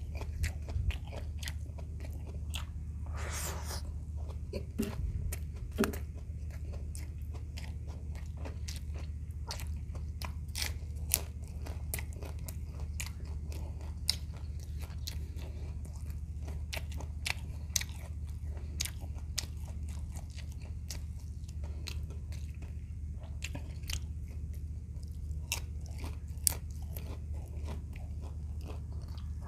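Close-up chewing of crispy fried shrimp, with many small crunches and mouth clicks scattered throughout, over a steady low hum. There is a short rushing sound about three seconds in.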